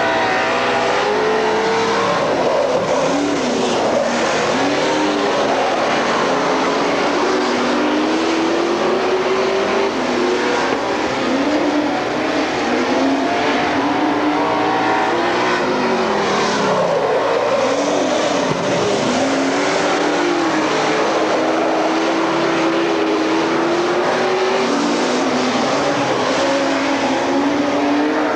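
Several dirt-track race cars running at speed, their engines overlapping and rising and falling in pitch as they pass by.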